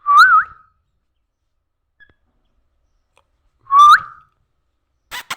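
Pet parrot giving two loud whistles about three and a half seconds apart, each a wavering note that sweeps up sharply at its end. Two brief clicks follow near the end.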